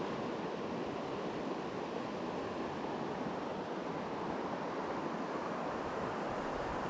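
Steady rushing of a small creek's water, an even hiss with no changes.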